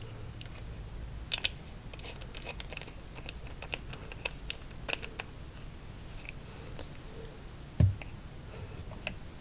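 Small, irregular clicks and taps of bottles and tools being handled on a workbench, with one louder thump about eight seconds in.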